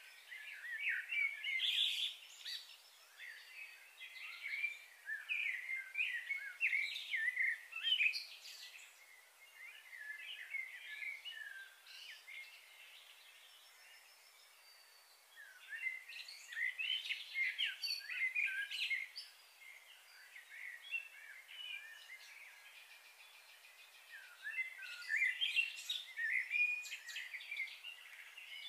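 Wild birds chirping and singing in quick, busy runs of high notes, in three spells with short lulls between them.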